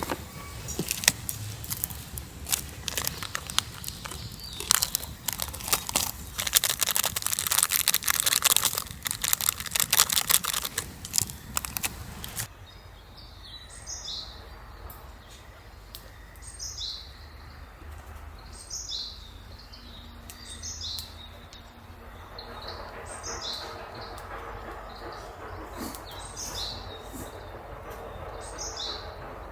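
Dense crackling and clicking for about the first twelve seconds, then, after a sudden change, a forest background in which a bird repeats a short high call about every two seconds.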